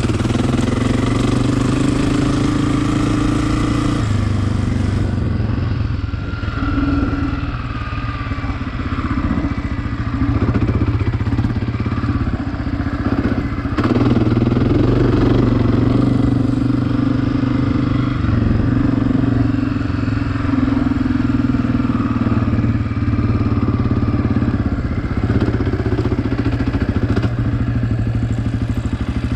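Dirt bike engine running, its pitch stepping up and down every few seconds with the throttle.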